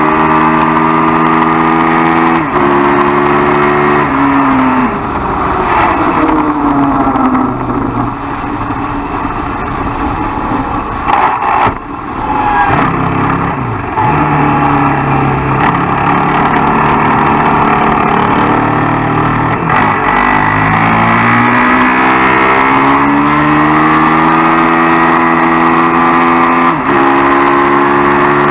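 Suzuki SV650 superbike's V-twin engine pulling hard through the gears, its pitch climbing and then dropping sharply at each upshift. It falls away as the bike slows, runs low for a while, then climbs again with another upshift near the end.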